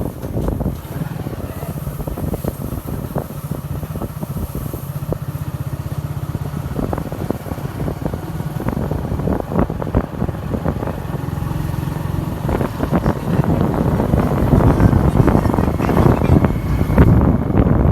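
Motorcycle running on the road while being ridden, with wind buffeting the microphone; it grows louder over the last few seconds.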